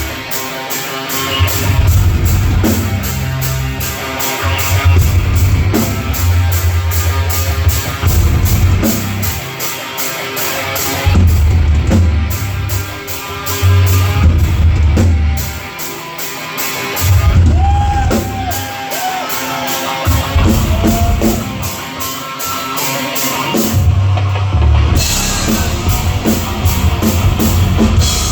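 Live heavy rock band playing: a steady driving drum-kit beat with distorted electric guitar and bass.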